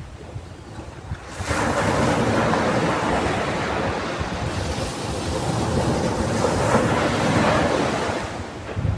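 Ocean surf: a wave breaks about a second and a half in and washes loudly for several seconds before dying away near the end. Wind rumbles on the microphone underneath.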